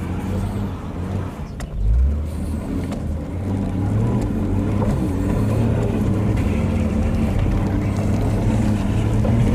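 Powerful rear-wheel-drive car's engine running hard, its pitch rising and falling as it is driven on grass, with a brief low thump about two seconds in.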